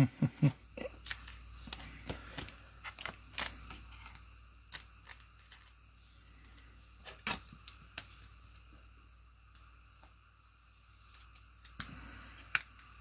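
Trading cards and pack wrappers being handled: scattered light clicks, taps and rustles of cardboard and foil, thickest in the first few seconds, then sparse.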